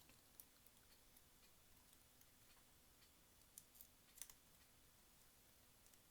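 Faint, scattered light clicks and taps of small plastic parts being handled as a cassette player's plastic front cover is fitted, with a few sharper clicks a little past the middle.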